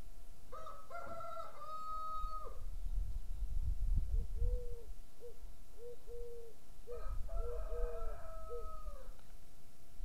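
Bird calls: two long calls, each about two seconds, some six seconds apart, with a run of short, lower notes between them, over a low rumble.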